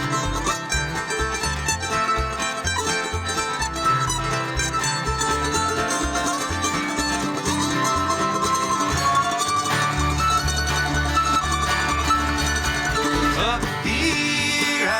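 Bluegrass band playing an instrumental break between sung lines, banjo and guitar picking over a steady low bass pulse.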